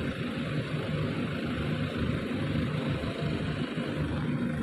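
A compact SUV's engine running at low speed as it drives slowly past close by, a steady low hum.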